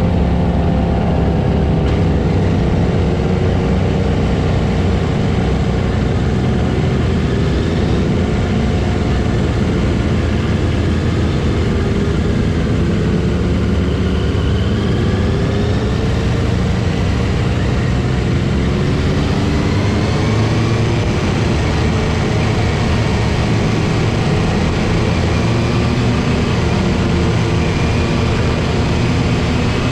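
Motorcycle engine running under way, its pitch rising and falling slowly as the revs change.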